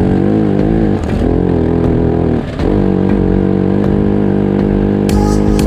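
A vehicle engine revving under load, its pitch climbing and dropping back twice, then holding steady.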